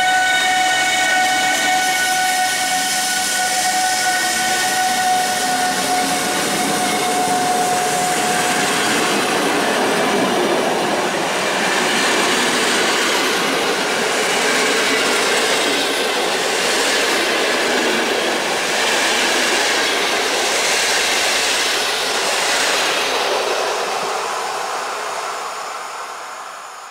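Newag Griffin (EU160) electric locomotive pulling out with its Intercity coaches. A steady high electrical whine runs for the first nine seconds or so. Then the coaches roll past with a regular clatter of wheels over the rail joints, and the sound fades away over the last few seconds.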